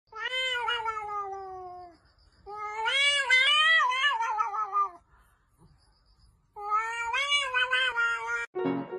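A cat meowing: three long, drawn-out calls with short pauses between, the first falling in pitch and the second wavering up and down.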